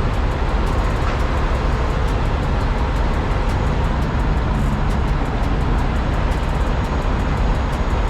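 Steady low vehicle rumble with a faint steady hum, unchanging throughout.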